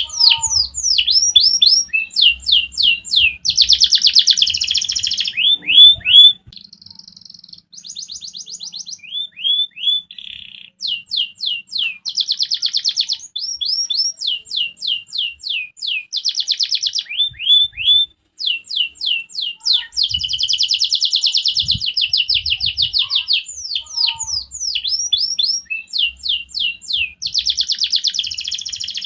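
Domestic canary singing a long, varied song: fast trills alternating with runs of quick, falling whistled notes, with a quieter stretch about six seconds in.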